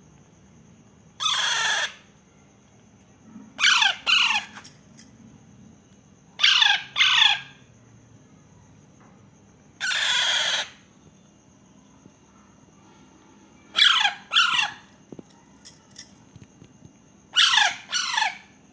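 Parakeet chick giving harsh, raspy screeching calls, six bouts spaced a few seconds apart, most of them quick double screeches.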